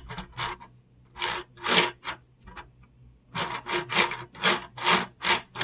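A 3D-printed plastic model engine being turned over by hand, its dry plastic parts scraping and rubbing in a series of strokes, about two a second in the second half. The maker thinks it needs lubrication.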